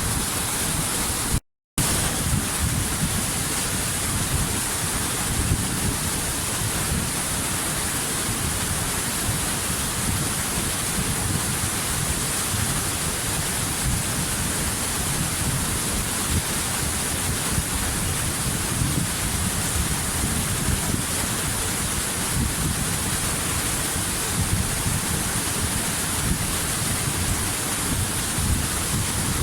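Waterfall, a steady rushing roar of falling water, with a brief dropout to silence about a second and a half in.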